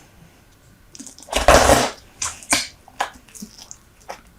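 Super Bubble bubble gum close to the microphone: a bubble bursts loudly about a second and a half in, then a quick run of sharp, wet chewing smacks.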